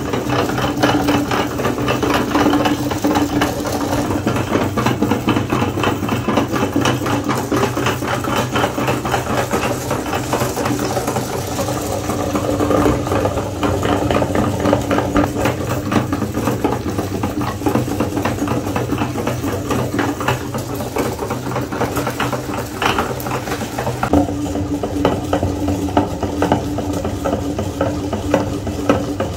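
A small motor running steadily under a fast, continuous rattling clatter.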